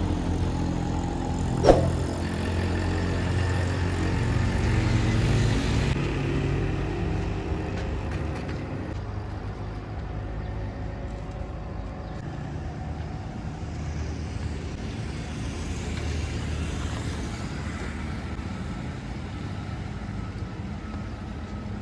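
Road traffic going by steadily, a rumble of engines and tyres that is louder in the first few seconds, with one sharp click about two seconds in.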